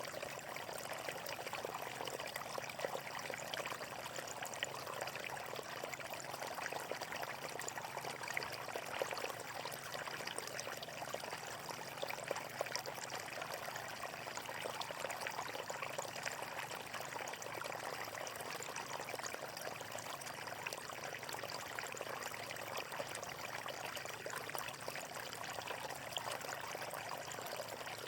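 Flowing water running steadily, an even, unbroken rush.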